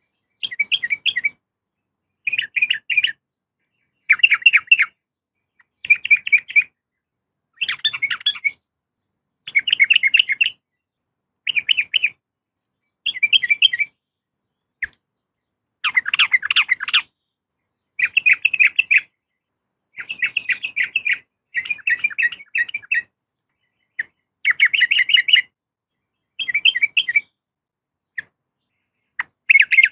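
Female sooty-headed bulbul (trucukan) giving short, bright chattering call phrases over and over, one about every one and a half to two seconds with brief silences between: the call a female gives to draw a male.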